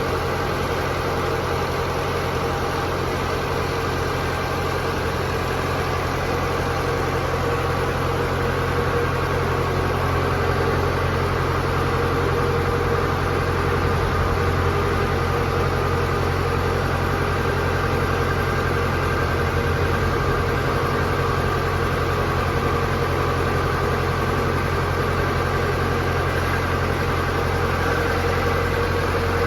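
Steady low hum and drone of a forging shop's machinery running continuously, such as a power press's motor and flywheel, with no distinct press strokes or impacts.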